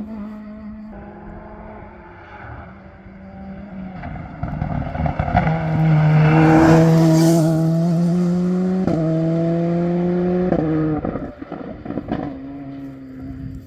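A modern rally car at full throttle approaching and passing on a special stage. Its engine note steps abruptly twice at gear changes, and it is loudest about six to seven seconds in, with tyre and road noise. As it pulls away there is a run of sharp cracks.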